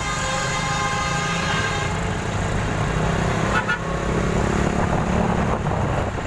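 Motor vehicle running on the road with a steady low rumble. A steady pitched tone sounds over it for about the first two seconds.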